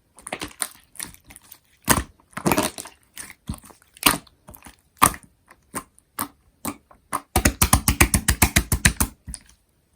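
Slime being squished and pressed by hand: scattered sticky clicks and squelches, then a fast run of about ten pops a second in the last few seconds.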